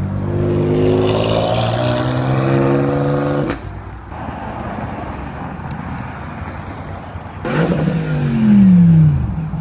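A car engine accelerating with rising pitch, cut off abruptly about three and a half seconds in, then quieter road traffic. Near the end, a black Bentley Continental GT convertible's engine comes in loud and drops steeply in pitch as it drives past.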